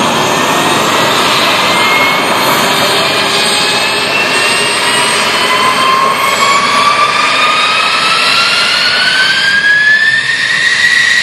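Fighter jet engine running loud, with a rising whine as it spools up, then holding steady near the end.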